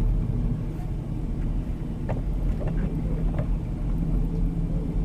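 Steady low engine hum and tyre rumble heard inside a four-wheel-drive vehicle's cabin while it drives on snow-covered roads, with a few light clicks a couple of seconds in.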